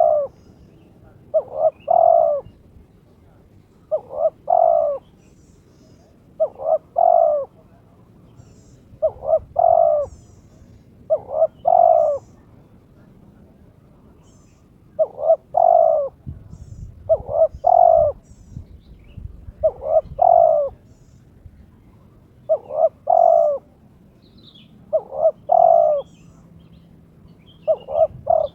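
Spotted dove (terkukur) cooing: a two-part coo phrase repeated about every two and a half seconds, about a dozen times. It is the call of a bird in breeding condition challenging a rival.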